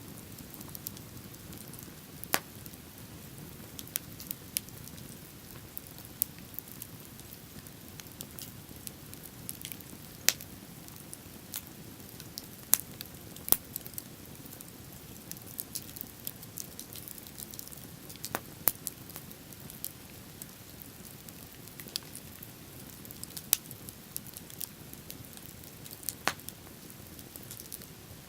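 Wood bonfire crackling: sharp, irregular pops and snaps, a few of them loud, over a steady low rush.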